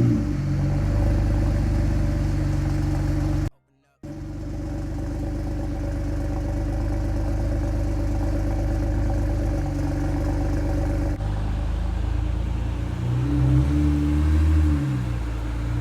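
BMW 335i's twin-turbo N54 inline-six with a resonator-deleted exhaust, running at steady revs. The sound drops out for a moment about three and a half seconds in. In the last few seconds the revs rise and fall.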